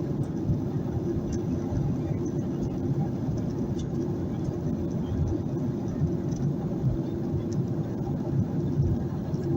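Steady roar inside a Boeing 737-800 economy cabin, with its CFM56-7B turbofans at high thrust just after takeoff. There is a deep rumble with a steady low drone throughout.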